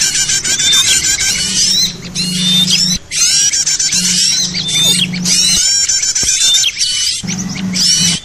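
A noisy bird-lure recording of many small birds chattering at once: dense, overlapping rapid chirps and quick downslurred notes, with brief lulls about three seconds in and again a little past the middle, and a low buzz coming and going underneath.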